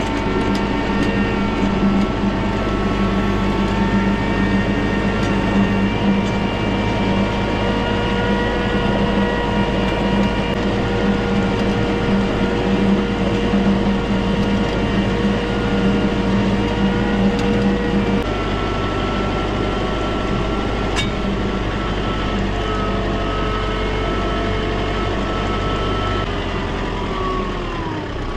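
An engine running steadily under load. Its sound changes about two-thirds of the way through, and near the end its pitch falls as it slows toward idle.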